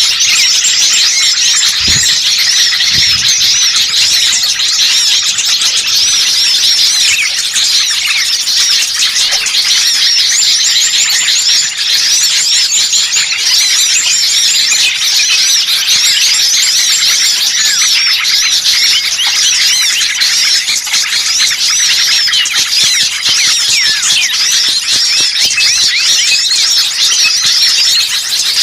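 A dense chorus of many small songbirds chirping and twittering at once, high-pitched, with quick repeated notes overlapping without pause. This is a crowded small-bird lure recording, the kind played to pull wild birds in.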